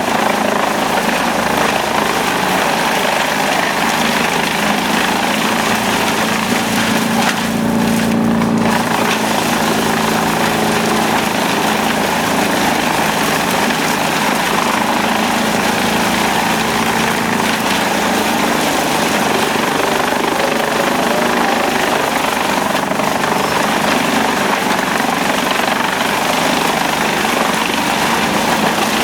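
Wood chipper running: a loud, steady engine drone under the noise of the machine at work.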